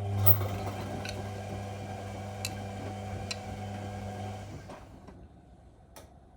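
Whirlpool Indiana 1400 front-loading washing machine running: a steady low hum with a rushing hiss that stops about four and a half seconds in, with a few sharp clicks along the way and one more near the end.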